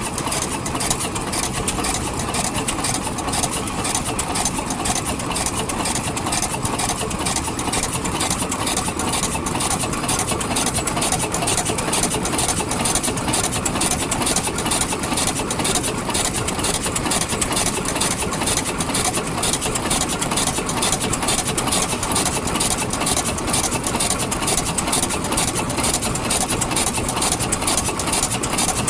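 Vintage engine running steadily at idle, with a rapid, even pulse that does not change.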